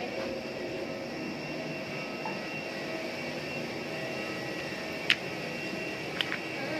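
Steady whine and rumble of jet aircraft turbines on an airport apron, holding several even tones. Two short sharp clicks stand out, about five and six seconds in.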